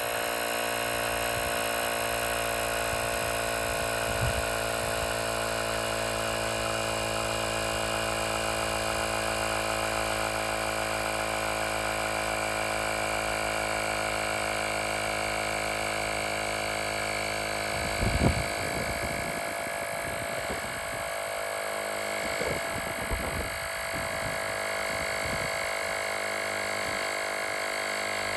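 Small battery-powered portable tire inflator's compressor running steadily while pumping up a vehicle tire. There are a few short knocks about two-thirds of the way through.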